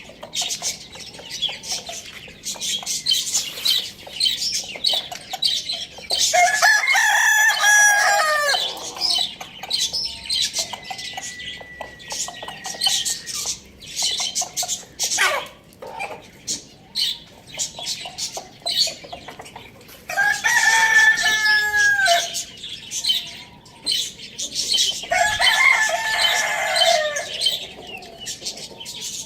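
A rooster crowing three times, each crow about two seconds long and dropping in pitch at the end, roughly seven, twenty and twenty-six seconds in. Between and under the crows, small birds chirp constantly.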